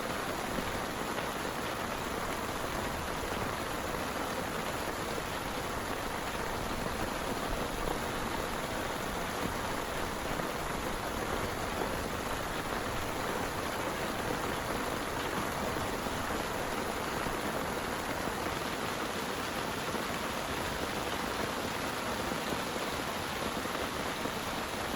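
Heavy rain pouring steadily, an even hiss of falling water with no breaks.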